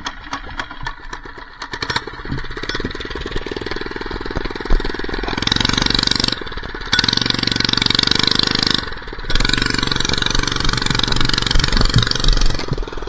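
Minibike engine catching and running with rapid firing pulses, then revved hard in three long bursts with a loud hissing scrub over the engine: the rear tyre spinning in a burnout.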